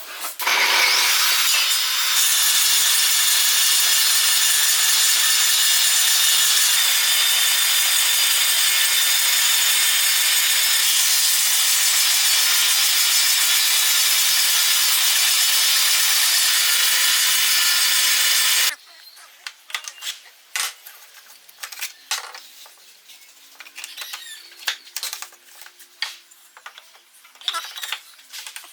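Table saw running and cutting wood: a loud, steady, high whine with a strong hiss that cuts off suddenly about two-thirds of the way through. Light, irregular clicks and knocks follow.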